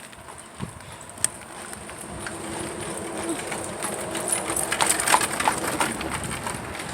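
Horse's hooves clip-clopping on the road as a horse and buggy draws near, growing louder and loudest about five seconds in.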